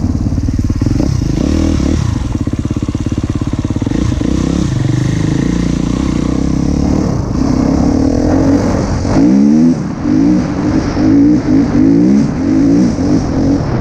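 Husqvarna TC 250 motocross bike engine running hard under throttle. From about eight seconds in it revs up again and again in quick rising sweeps, with short drops in between.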